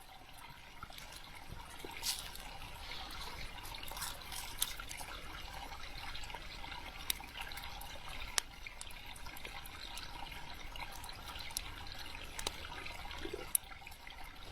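Campfire crackling: a steady hiss with scattered, irregular sharp pops and snaps.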